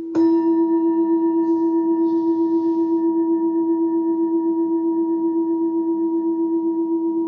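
Singing bowl struck once, then ringing on in a long, slowly pulsing tone with several overtones.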